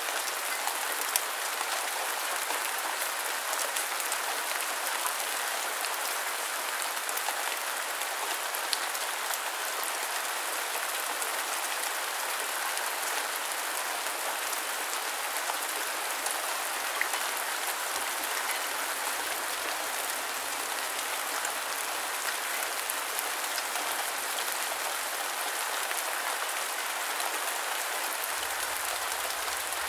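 Steady rain falling: an even hiss flecked with individual drop ticks, with a couple of louder close drops in the first few seconds.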